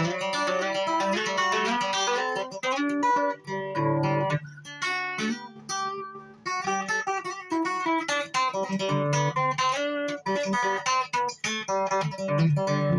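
Solo guitar played as a run of plucked notes and chords, the loudness rising and falling with brief pauses between phrases.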